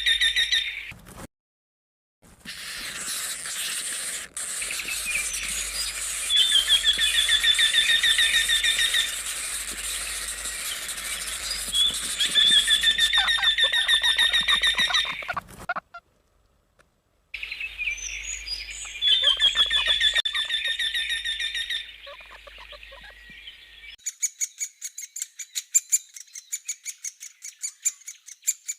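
Eurasian wryneck singing: several series of repeated, plaintive, evenly pitched notes, each run lasting a few seconds. About 24 s in, it gives way to a great spotted woodpecker giving a rapid series of short, sharp notes.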